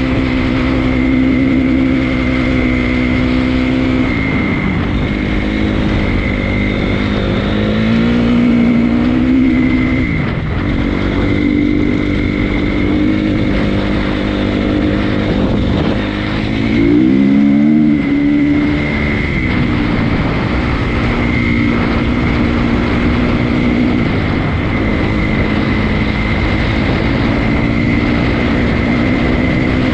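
Honda CRF250 dirt bike's single-cylinder four-stroke engine under way on a trail. It revs up and down as the throttle and gears change, with the pitch dropping and climbing again a few times.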